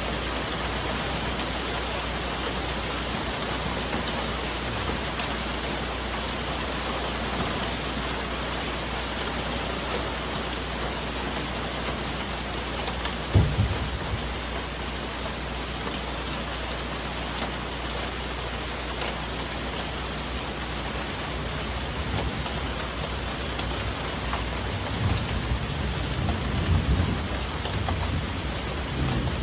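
Steady rain falling on forest foliage. A single sharp thump comes about 13 seconds in, and in the last few seconds a low, uneven thunder rumble builds up.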